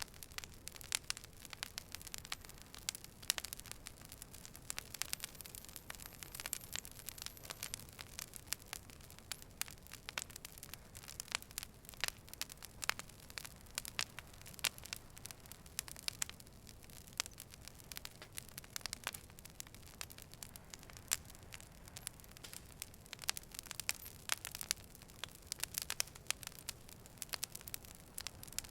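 Wood fire burning: dense, irregular sharp crackles and pops over a soft steady hiss.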